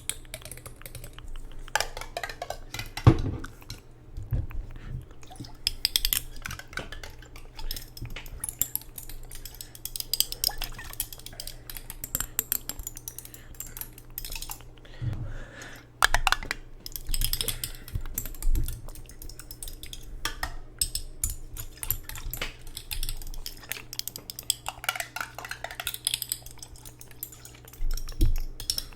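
Irregular close-up tapping and clinking on a glass jar of water, with scattered louder knocks.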